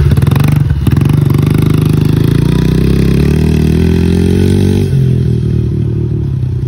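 Small Honda pit bike's single-cylinder four-stroke engine under throttle, its pitch climbing steadily for several seconds. About five seconds in the pitch drops suddenly as the throttle is let off. There is a brief clatter under a second in.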